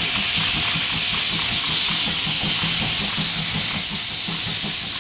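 Steam locomotive C12 66 letting off steam, a loud steady hiss, with faint rhythmic low pulses from the train underneath.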